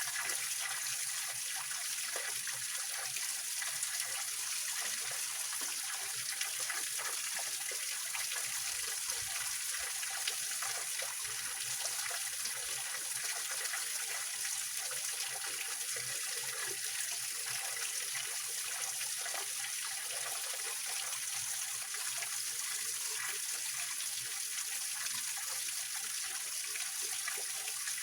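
A small mountain stream splashing and trickling over rocks as a little waterfall, a steady, even rush of water.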